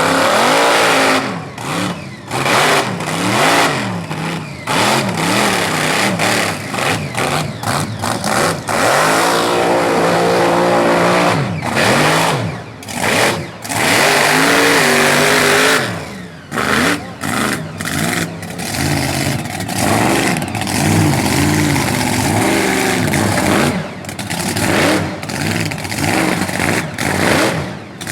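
Mud-bogging truck's engine revving hard, its pitch climbing and falling again and again as the throttle is worked, with brief dips between pulls.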